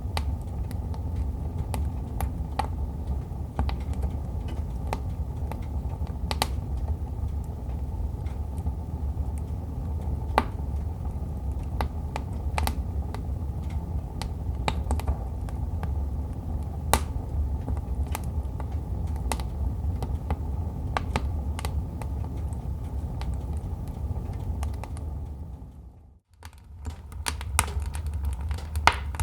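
Wood fire crackling in a fireplace: a steady low rumble of burning, with scattered sharp pops and snaps. Near the end it fades out for a moment and comes back.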